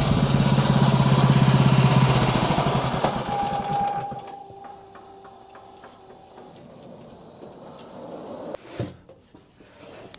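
A small engine running, then shut off about four seconds in and winding down to a stop, with a single tone fading out after it and one knock near the end.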